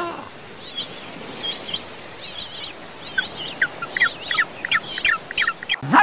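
High-pitched bird chirps, scattered at first, then a quick run of short downward-sliding chirps about three a second. A sudden loud low sound cuts in at the very end.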